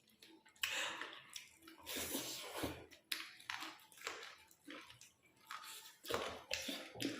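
Close-up eating sounds: wet, squishy chewing of rice with chicken gravy and dal, in short irregular bursts.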